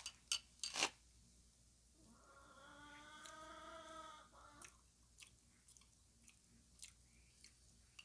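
A person eating soft pumpkin cake, chewing quietly with small wet mouth clicks. About two seconds in comes a drawn-out hum of several seconds that rises and falls.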